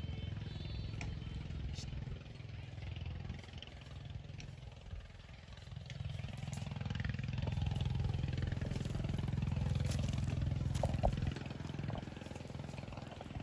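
An engine running with a fast, even putter. It fades about four seconds in, comes back louder from about six seconds, and drops back near the end.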